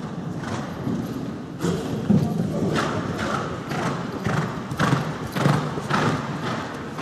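Horse's hooves thudding on the arena footing in a steady rhythm, about two dull beats a second, as the horse canters around a showjumping course.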